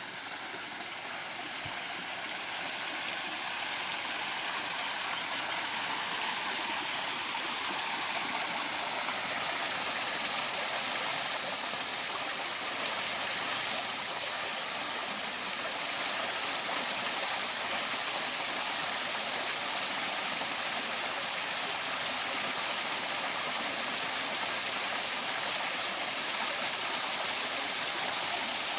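Running water from a garden waterfall, splashing steadily; it grows louder over the first few seconds, then holds.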